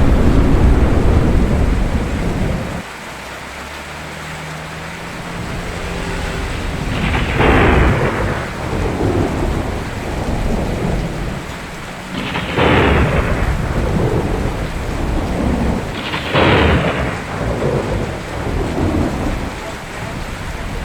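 Steady rain with thunder. A heavy low rumble of thunder stops abruptly about three seconds in, then three sharp cracks of thunder come about five and four seconds apart, each trailing off into rolling rumbles.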